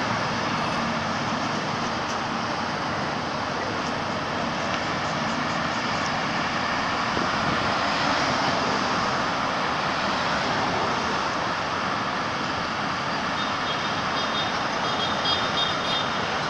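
Steady road traffic noise, an even rush without breaks, with a few faint high chirps near the end.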